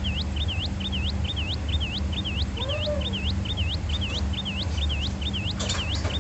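A bird repeating the same short, dipping then rising chirp about three times a second, very evenly, over a steady low hum. A single short lower call comes about two and a half seconds in, and a few light clicks come near the end.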